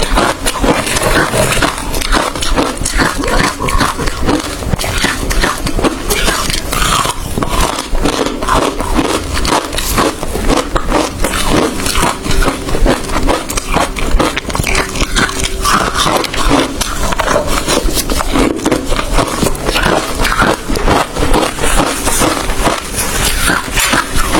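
Hard ice being bitten and chewed close to the microphone: dense, rapid crunching and crackling.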